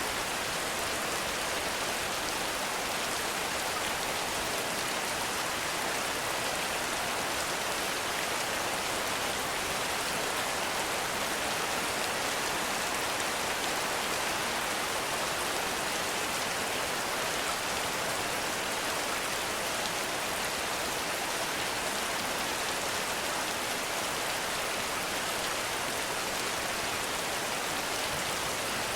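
Heavy rain falling steadily, a dense, even hiss with no breaks or single louder strikes.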